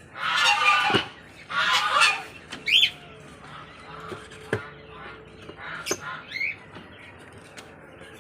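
Domestic hen giving two loud, harsh squawks, followed by a short rising chirp and a few softer calls. The squawks are the protest of a hen disturbed on her nest as eggs are taken from under her. Two light knocks sound in between.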